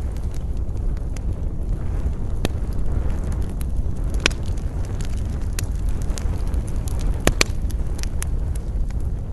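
Campfire crackling, with scattered sharp pops: the loudest about four seconds in and a close pair a few seconds later. Under it runs a steady low rumble of wind.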